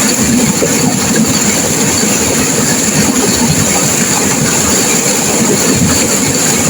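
Turbulent river water crashing and rushing, a steady, loud, even wash of noise with a low rumble under it.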